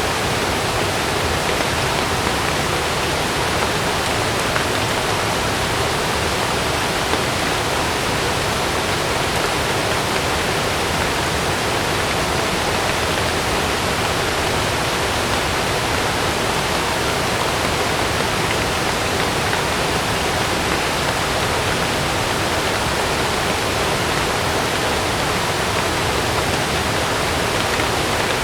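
Heavy rain falling as a steady, even rush, with no thunder claps.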